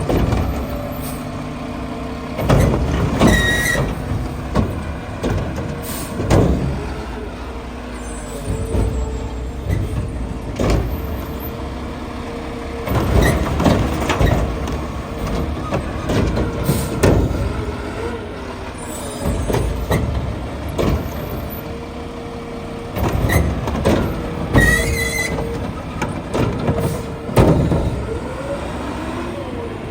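Mack LR garbage truck at work: the diesel engine runs with a steady whine, under repeated knocks and bangs and a few short air-brake hisses.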